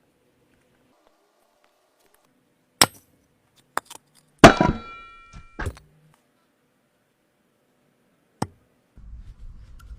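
A few sharp metallic knocks with quiet between them; the loudest, about halfway through, rings briefly with several clear tones, like struck steel. A low rumble starts near the end.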